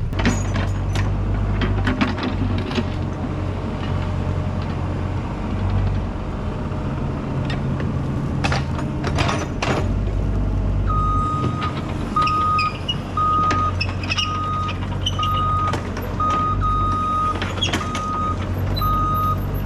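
Cat excavator's diesel engine running under load as it digs, with occasional sharp clanks. About eleven seconds in, its travel alarm starts beeping steadily, about once a second.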